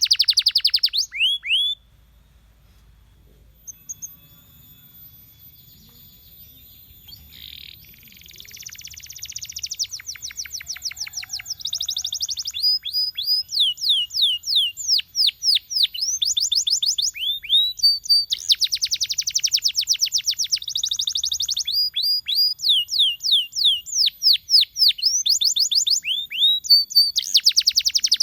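Domestic canary singing: rapid trills of repeated, downward-sweeping whistled notes. The song breaks off about two seconds in, starts again softly around seven seconds in, and runs on in trills from about ten seconds.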